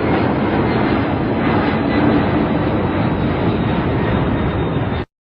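Airplane engine noise: a loud, steady, even sound with a faint hum in it, cutting off abruptly about five seconds in.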